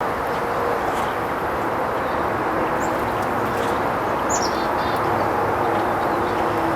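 A few short, high bird chirps, including a quick run of falling notes about four seconds in, over a steady background rumble.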